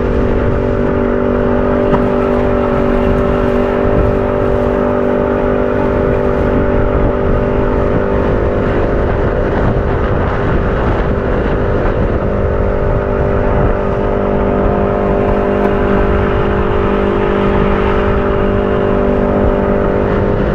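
Boat's outboard motor running steadily, its pitch dropping a little about twelve seconds in, over heavy wind noise.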